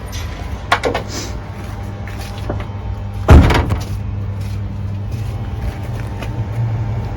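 A car door slams shut once, a little over three seconds in, after a few lighter clicks and knocks, over a steady low hum.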